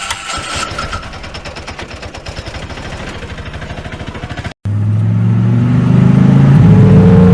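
Cartoon vehicle engine sound effects. A fast, even rattling engine runs and cuts off abruptly about four and a half seconds in, then a louder engine hum starts and rises slowly in pitch, as if revving up.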